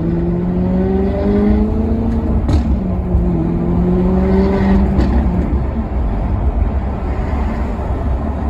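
Maserati Quattroporte Sport GT's V8 accelerating, its note climbing through a gear, shifting about two and a half seconds in, climbing again and shifting near five seconds in, then settling into a steadier drone under road noise.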